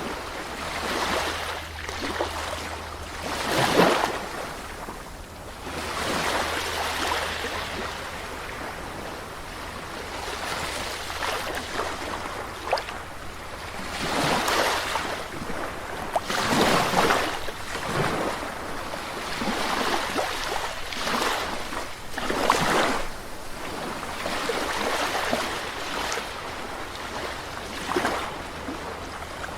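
Sea waves breaking and washing in, a surge every few seconds swelling and fading, the strongest about four seconds in and near the middle. A low steady rumble lies under them.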